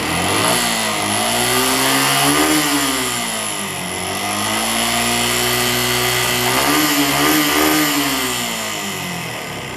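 Suzuki Gixxer's single-cylinder engine revved up twice, its pitch rising and falling back each time. It makes an unwanted engine noise that the owner expects a tappet clearance adjustment to improve.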